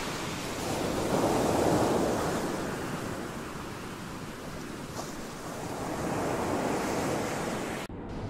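Ocean waves surging, swelling and falling away twice, then cutting off abruptly near the end.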